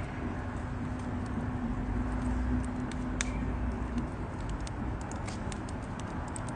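Wood campfire crackling: irregular sharp pops and ticks over a steady low rush of burning.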